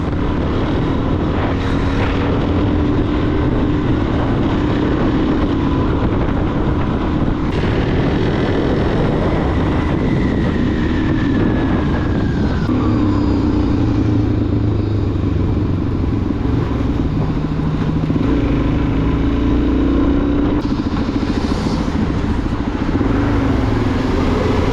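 Suzuki DRZ400SM's single-cylinder four-stroke engine running on the stock exhaust while the bike is ridden, its note shifting up and down a few times as the speed changes.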